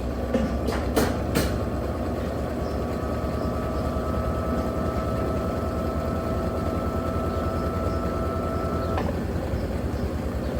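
Electrolux Turbo Capacidade 15 kg top-loading washing machine running mid-cycle, a steady low rumble with a few knocks in the first second or so. A steady whine runs over it and cuts off suddenly near the end.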